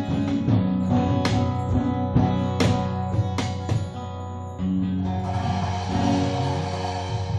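Acoustic guitar strumming chords, with strokes about a second apart, then a chord left ringing in the second half.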